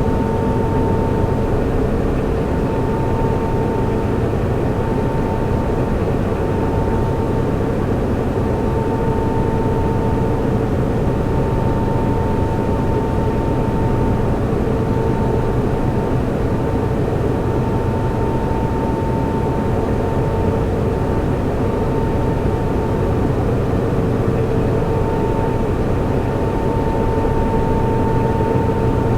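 Server room ambience: a steady whir of cooling fans with a faint hum and a higher tone that fades in and out.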